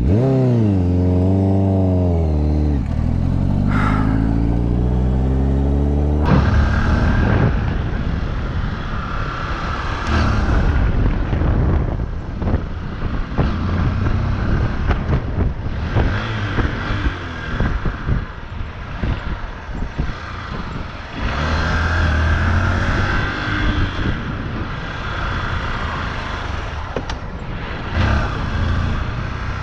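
Motorcycle engine revving: the pitch rises, falls away, then climbs steadily again. About six seconds in the sound cuts to wind and road noise over a running motorcycle engine as the bike is ridden.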